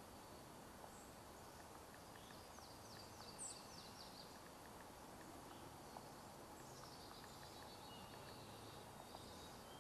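Near silence: faint outdoor ambience with distant bird calls. A quick run of short, high, down-slurred notes comes about two and a half seconds in, and a fainter run follows about seven seconds in.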